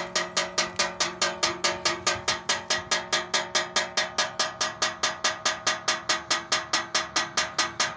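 Solar-powered bird scarer striking metal: rapid, evenly spaced clangs, about five a second, each ringing briefly.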